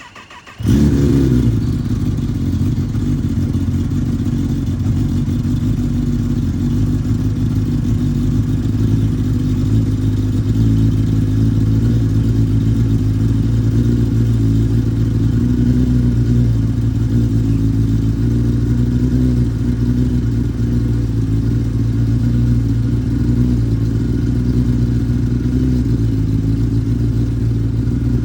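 Kawasaki Ninja ZX-10R's inline-four engine on a cold start: a brief crank, then it fires under a second in and settles into a steady idle.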